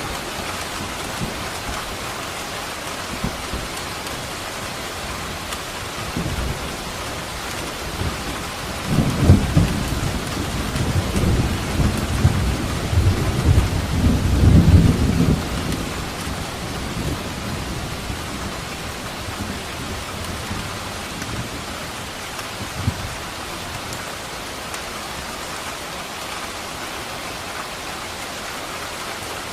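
Steady rain falling, with a long roll of thunder that builds about a fifth of the way in, rumbles loudest through the middle and fades away, leaving the rain alone.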